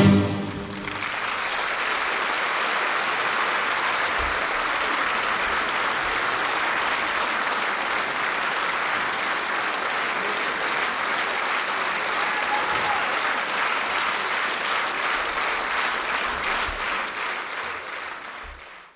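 Audience applauding steadily after the music ends, fading out near the end.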